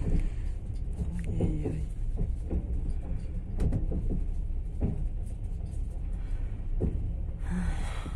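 Passenger train carriage running along the rails, heard from inside: a steady low rumble with irregular knocks and rattles.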